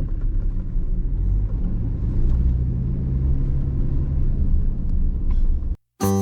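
Steady low rumble of a truck running, with a few faint clicks. It cuts off suddenly near the end.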